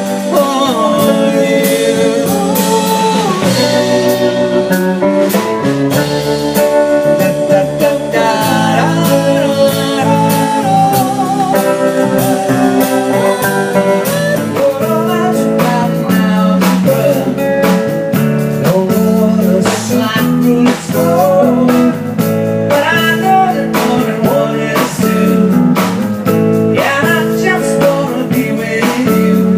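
A live rock band plays blues-style music: electric guitar over bass guitar and a drum kit, with steady drum and cymbal hits.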